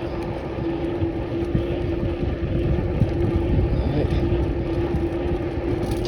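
Wind buffeting the microphone of a bike in motion, with a steady mid-pitched hum under it.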